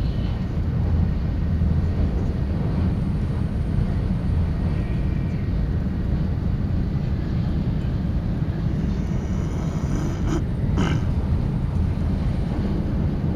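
Steady low rumble of a shinkansen bullet train running at speed, heard inside the passenger car, with a couple of brief clicks about ten seconds in.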